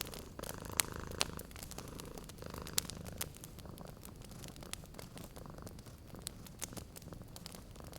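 Domestic cat purring steadily, with the pops and crackles of a wood fire scattered over it.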